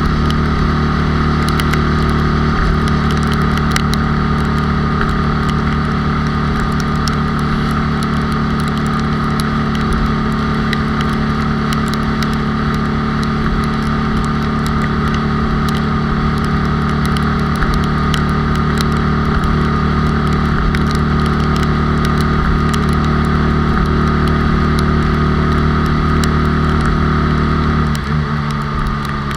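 Honda Super Cub's 97 cc single-cylinder four-stroke engine running steadily at cruising speed, mixed with wind and road noise as heard from on the bike. About a second before the end, the engine note drops and the sound eases slightly.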